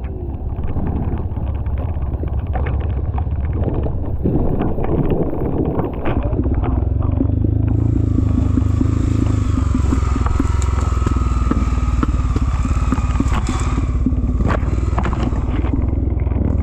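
Off-road motorcycle engine running hard under load while it struggles on a muddy climb. It grows louder about halfway through, with a higher, steady whine on top.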